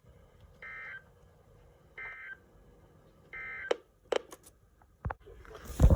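Three short, identical screeching data bursts from an Emergency Alert System broadcast, about a second and a half apart: the end-of-message code that closes a weather warning. A few sharp clicks follow, then a loud burst of rough noise near the end.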